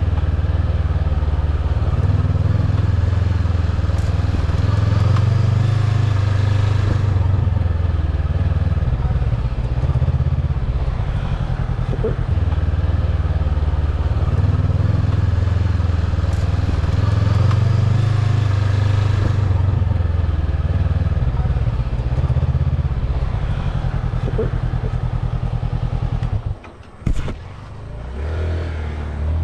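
Motorcycle engine running as the bike is ridden, its note rising and falling. Near the end it drops away sharply for a moment, then picks up again.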